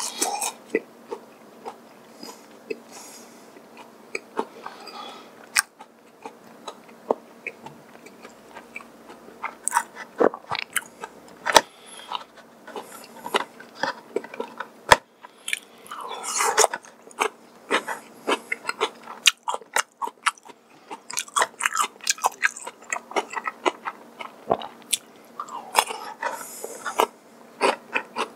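Close-miked eating sounds: biting and chewing of crisp fried chicken and potato wedges, with many sharp crunches and wet mouth clicks.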